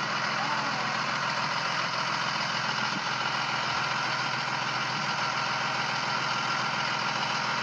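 A 2003 Blue Bird All American school bus's engine idling steadily.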